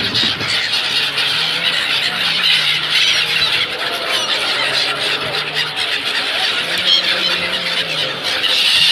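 A large flock of migratory gulls squealing and calling over the water, a dense, unbroken chorus of overlapping high cries as they catch thrown food.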